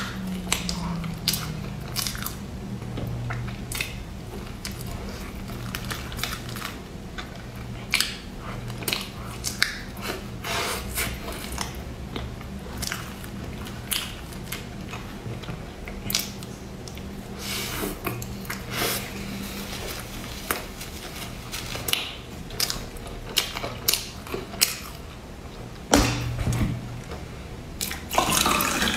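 A person chewing and biting a soft bread bun topped with meat floss and mayonnaise, picked up close on a lapel microphone, with frequent small mouth clicks throughout. The mouth sounds grow louder near the end.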